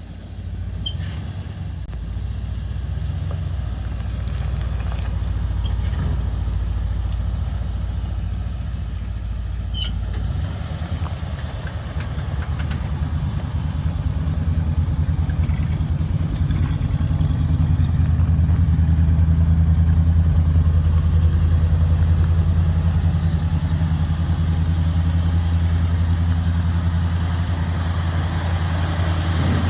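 1977 Ford F-150 pickup's engine idling steadily. The note shifts about ten seconds in and grows louder over the next several seconds.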